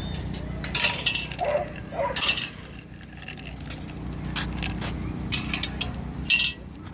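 Metal clinking and jingling in several short bursts, a cluster about a second in, another about two seconds in, and a run near the end.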